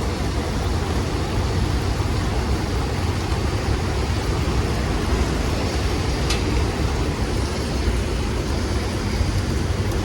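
Strong storm wind blowing steadily and buffeting the phone's microphone, heard as a deep rumble under a rushing hiss. A single short tick about six seconds in.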